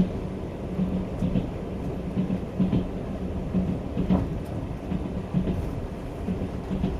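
Trans-Siberian passenger train rolling along the track, heard from inside the carriage: a steady low rumble and hum with frequent irregular knocks and clatter from the wheels and car body.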